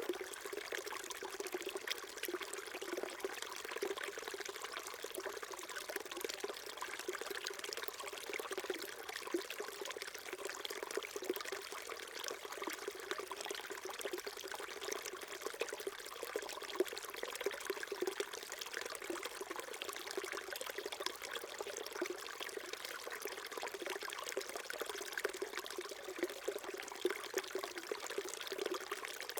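Small stream trickling and babbling steadily over stones, an even, continuous water sound.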